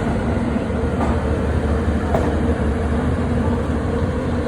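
Train running with a steady low noise and a faint steady hum, with no breaks or changes.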